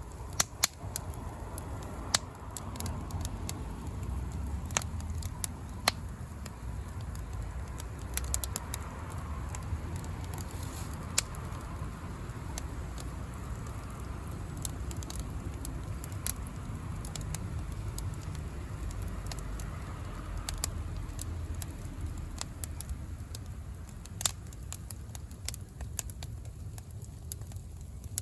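Bonfire of firewood, cut wood, dry grass and bamboo shoots crackling, with sharp pops at irregular intervals over a low steady rumble.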